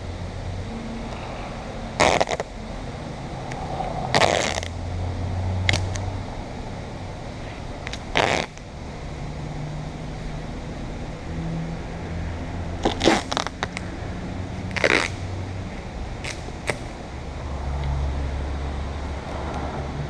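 Adhesive tape being pulled off the roll and torn in short rips, about nine times, some longer than others, over a low steady hum.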